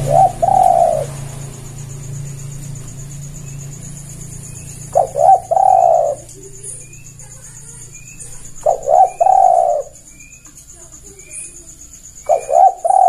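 Spotted dove cooing: four calls about every four seconds, each two short notes followed by a longer, rolling coo.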